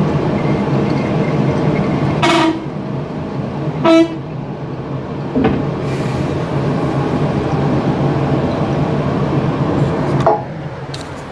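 Steady engine and road noise inside a moving car's cabin, with two short pitched toots about two and four seconds in.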